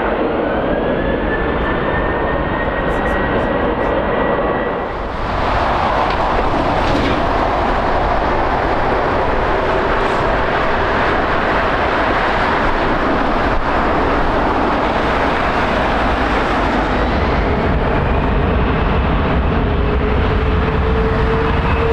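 Jet airliner engines running loud, a dense rushing noise with a whine that rises in the first second and then holds steady. There is a brief dip about five seconds in, and a lower whine creeps up near the end.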